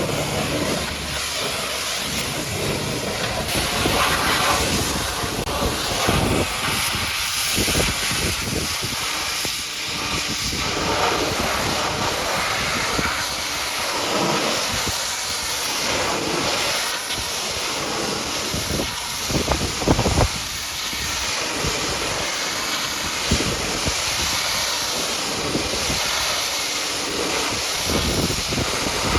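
Pressure-washer jet spraying against a truck: a continuous hiss that swells and dips as the spray sweeps over the surfaces, with short sharper spurts.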